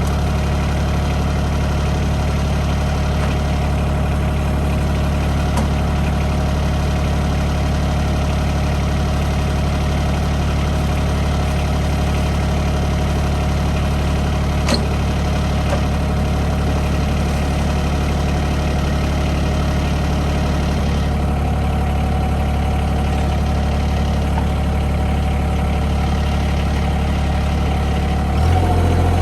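Bad Boy compact tractor's diesel engine running steadily at a constant speed, with a single sharp tick about halfway through; near the end the engine speed steps up and it gets louder.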